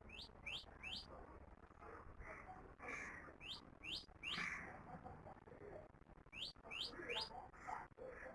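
A songbird calling: quick, rising whistled notes in groups of three, repeated every few seconds.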